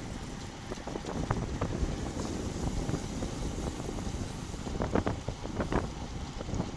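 Wind buffeting the microphone of a bike-mounted action camera while riding, with steady rushing road and tyre noise and a few sharp knocks, most of them near the end.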